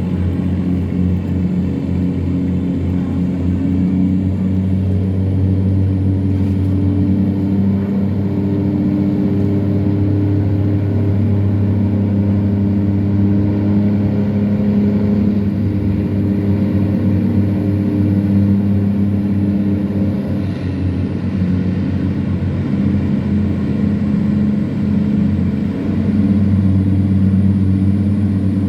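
A tugboat's diesel engine running steadily under load while it tows a cargo barge, a deep even drone. The level dips briefly about two-thirds of the way through and picks up slightly near the end.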